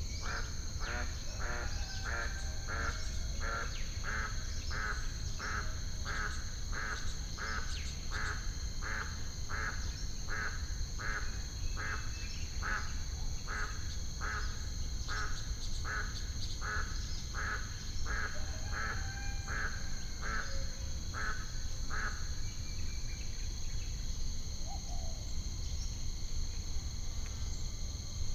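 A duck quacking over and over, short even calls nearly two a second that stop about three-quarters of the way through, over a steady high drone of crickets and a constant low rumble.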